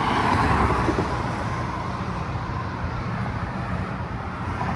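Road traffic noise: a car passes close by, loudest about half a second in, over a steady low rumble of traffic.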